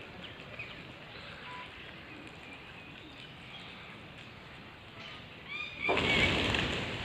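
Flock of peafowl and parrots at a feed, calling: scattered faint calls, then a quick series of harsh rising calls about five and a half seconds in. A sudden loud rush of noise follows near the end.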